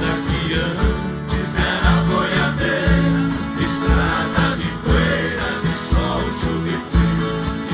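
Live Brazilian country music: an ensemble of plucked string instruments playing a passage between sung lines, with a steady beat.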